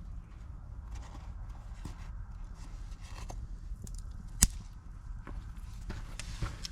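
Wood campfire burning with scattered crackles and pops, one sharp loud pop about four seconds in, over a steady low rumble.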